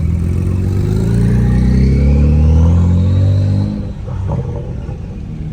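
Car engine revving, its pitch climbing steadily for about three and a half seconds before it is let off and drops back.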